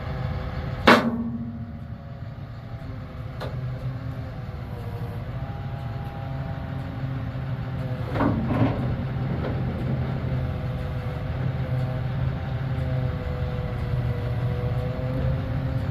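Heavy truck engine running steadily, with a loud sharp metallic bang about a second in and a smaller double clank about eight seconds in.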